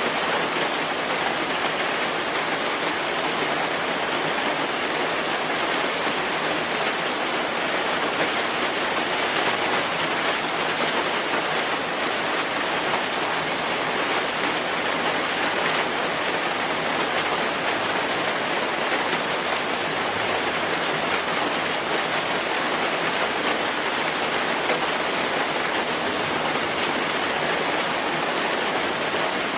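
Steady rainfall: a dense, even hiss of rain with no let-up, a few separate drops ticking through it.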